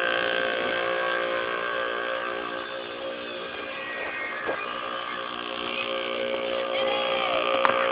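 Small 50cc dirt bike engine running at a steady pitch, growing fainter around the middle and louder again toward the end as the bike moves away and comes back.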